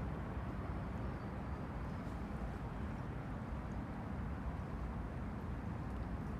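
Small waves on the Han River washing against the bank: a steady, low wash of water with no single wave standing out.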